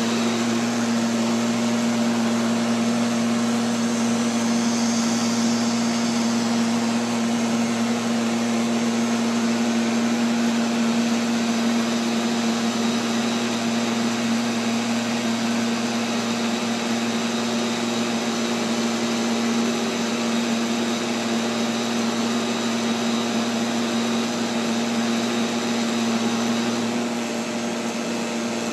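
Neato XV-11 robotic vacuum cleaner running, heard from a camera mounted on the machine: a steady mechanical hum with a strong low tone. Near the end a deeper part of the hum drops out and it gets slightly quieter.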